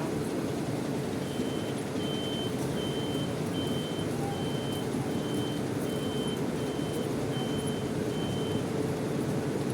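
Reversing alarm of a bus backing up: ten evenly spaced high-pitched beeps, a little more than one a second, starting about a second in and stopping near the end, over a steady low rumble of vehicle engines.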